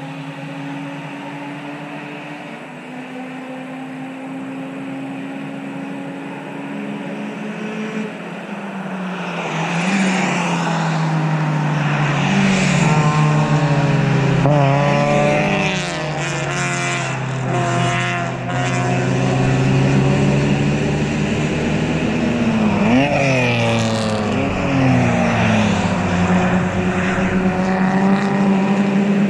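Race cars going past: a distant engine drone at first, then, about nine seconds in, a group of cars passing close with several engines at once, their pitch rising and falling through gear changes and as they go by, and another car revving up near the end.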